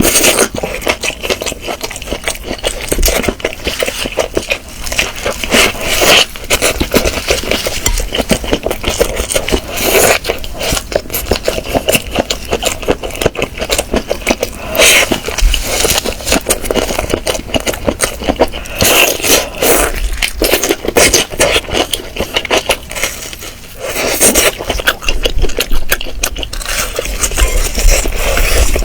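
Close-miked eating sounds: dense crackling and scraping as chicken is chewed and handled, with no talking.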